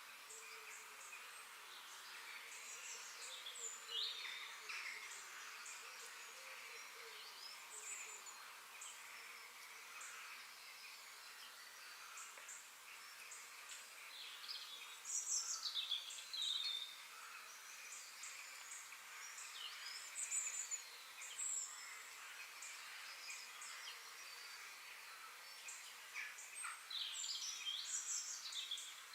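Several small birds chirping and trilling in short calls, busiest about halfway through and near the end, over a steady high background hiss.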